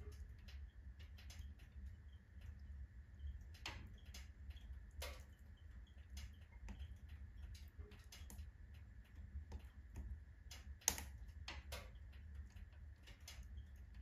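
Firewood burning in a wood stove, crackling with irregular pops over a low steady rumble; one sharper pop comes about eleven seconds in.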